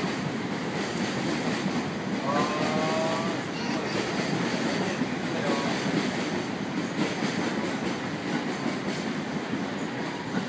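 24-series sleeper coaches rolling past along the platform, steel wheels clattering over the rail joints under a steady rumble, with a brief metallic squeal about two seconds in and a fainter one a few seconds later.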